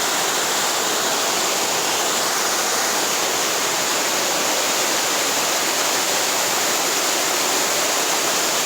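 Waterfall and raging river rushing: a loud, steady, unbroken rush of falling water.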